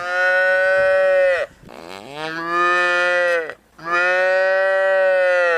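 A cow mooing: three long moos in a row, the last one cut off abruptly.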